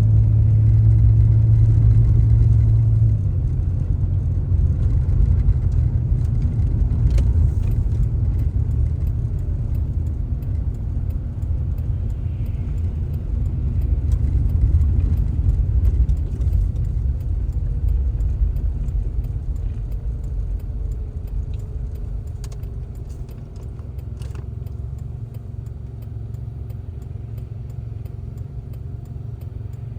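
Car driving, a steady low engine and road rumble; a low hum drops away about three seconds in, and the rumble gradually eases near the end, with a couple of light clicks.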